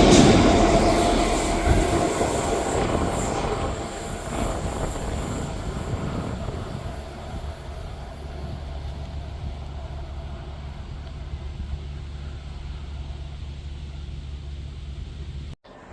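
A train passing at speed, loudest at the start and fading away over several seconds as it recedes, leaving a steady low rumble.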